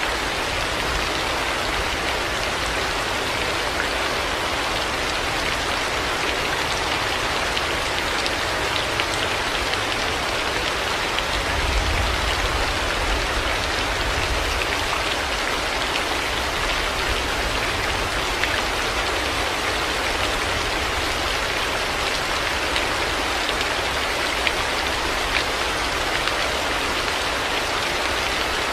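Heavy rain falling steadily, a dense even hiss with scattered drop ticks. A brief low rumble comes in about twelve seconds in.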